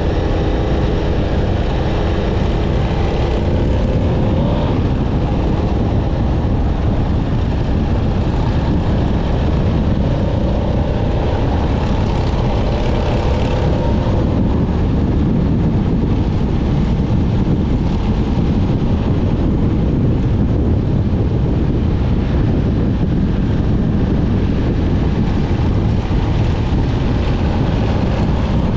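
Motorcycle under way: engine running beneath a steady, loud low rush of wind on the microphone, the engine note rising slightly a few seconds in and again about halfway through.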